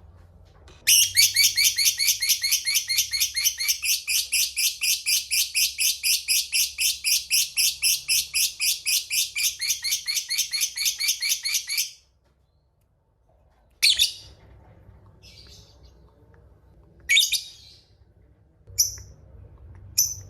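A lovebird's long 'ngekek' chatter, the extended trill prized in fighter lovebirds: a rapid run of sharp, shrill chirps at about five a second that lasts some eleven seconds and stops abruptly. A few single sharp calls follow near the end.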